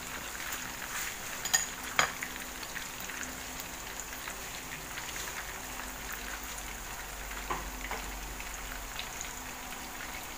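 Breaded fish fillet shallow-frying in hot oil in a pan: a steady sizzle with small spitting crackles. Two sharp clicks about one and a half and two seconds in are the loudest sounds.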